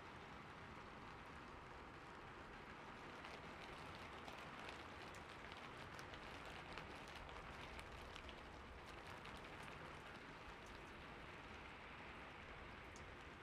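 Faint, steady water ambience: splashing water with a dense patter of small droplets, a little busier in the middle.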